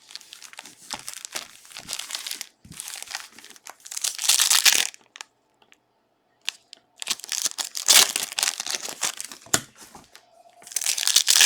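Foil trading-card pack wrappers being torn open and crinkled by hand, in several spells of crinkling with short pauses between them.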